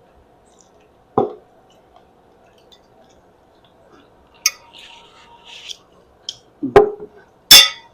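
Eating sounds over a plate of spaghetti. A sharp utensil knock comes about a second in, softer mouth noises follow from about halfway, and two louder sharp knocks come near the end, the last the loudest.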